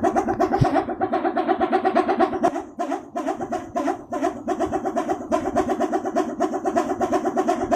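Balinese pindekan, a wooden wind-driven propeller on a pole, spinning in the wind and giving a rapid, throbbing buzz in two low tones, dipping briefly about three seconds in.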